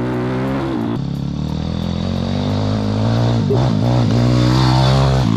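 Motocross motorcycle engine running steadily after a kick start, its pitch wavering briefly past the middle and the sound getting a little louder towards the end.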